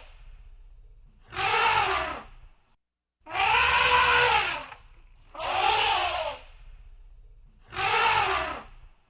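Elephant trumpeting: four loud calls, each about a second long and coming about every two seconds, each rising and then falling in pitch.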